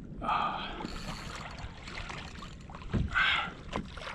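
Water splashing around a kayak at sea, twice, with a sharp knock about three seconds in.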